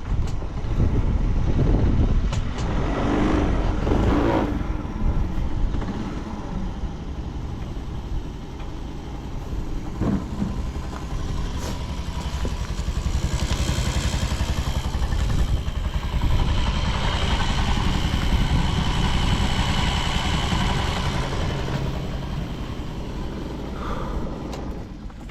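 Honda Giorcub AF53 moped's small single-cylinder engine running steadily, rising and falling in loudness a few times. It runs quietly, without any abnormal engine noise.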